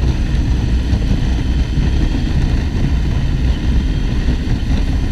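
Steady low wind rumble on a helmet microphone, mixed with motorcycle engine and road noise while riding.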